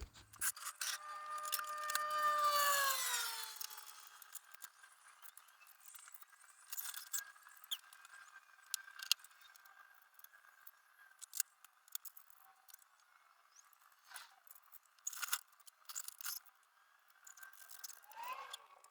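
Workshop work on an exhaust system: a whine from a spinning tool holds steady for a couple of seconds, then winds down. After it come scattered metallic clicks, clinks and scrapes as parts and tools are handled.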